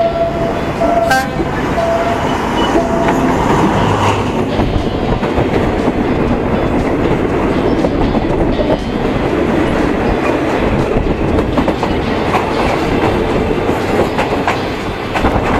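Diesel-hauled passenger train running on its rails, heard through an open carriage window, with wheels clacking and a steady rumble. A second train passes close by on the next track. A steady warning tone sounds, with short gaps, for the first three seconds or so.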